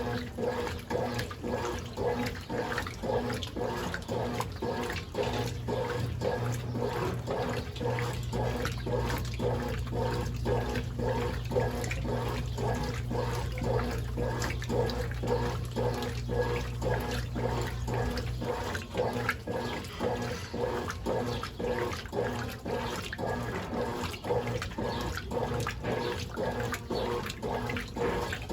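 Brastemp Ative BWL11 top-loading washing machine washing a load, its water sloshing in a rhythmic swish about two to three times a second over a low motor hum. The hum grows louder for a stretch in the middle.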